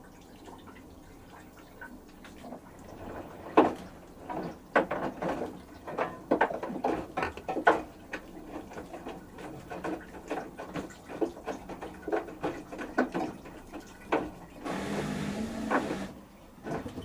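LG TurboWash 360 AI DD front-loading washing machine in its rinse, water sloshing and splashing in irregular bursts as the direct-drive drum tumbles the load. Near the end there is about a second and a half of steady rushing noise.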